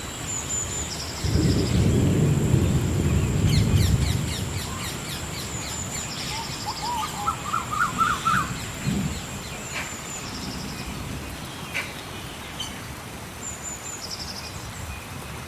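Rainforest ambience with a steady high-pitched drone and several birds calling: repeated short high calls, a run of quick chirps, and a series of rising whistled notes. A low rumble of thunder comes about one to four seconds in.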